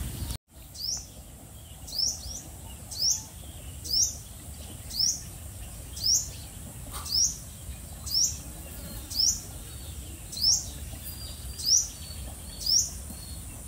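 A bird repeating a short, high, rising call very regularly, about once a second.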